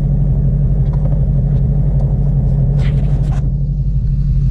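Turbocharged Honda S2000 with a swapped-in F22C 2.2-litre four-cylinder running with a steady low drone. A brief rustle comes through about three seconds in.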